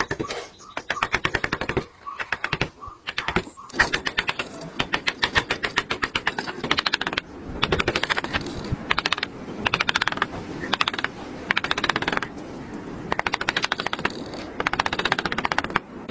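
Wood being carved with rapid, clicking strokes of a carving tool, in runs of a second or two broken by short pauses.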